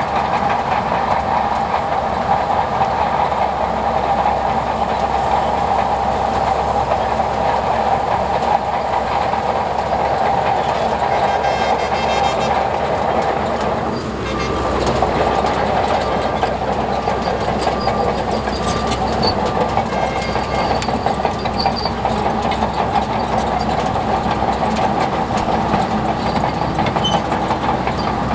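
Crawler bulldozer working: its diesel engine runs steadily under load over a continuous clanking rattle of steel tracks.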